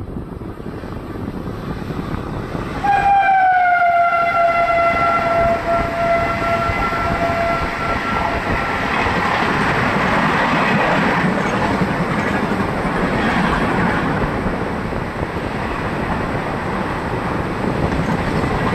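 Indian Railways electric locomotive's horn: one long blast a few seconds in, dipping slightly in pitch at its start and then holding before fading. Then the steady rumble and wheel clatter of a passenger train's coaches running past close by at speed.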